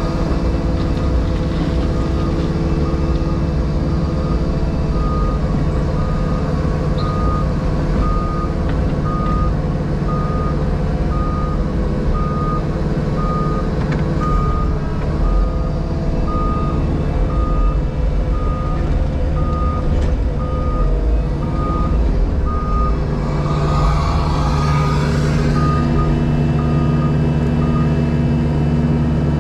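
Diesel engine of a JCB Pothole Pro running steadily, heard from the cab. A reversing alarm beeps about once a second, starting about five seconds in and stopping a few seconds before the end. Near the end there is a brief hiss and the engine note changes.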